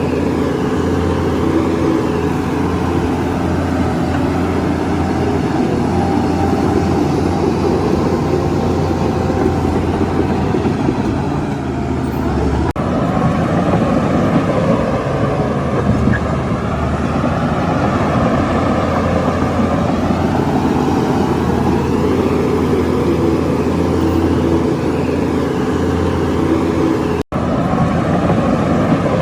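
Shantui bulldozer's heavy diesel engine running under load, its note slowly rising and falling as the machine works. The sound breaks off briefly near the end.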